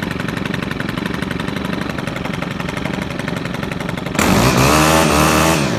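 Engine of farm equipment running steadily with a fast even rattle, then revved louder about four seconds in, dropping back near the end.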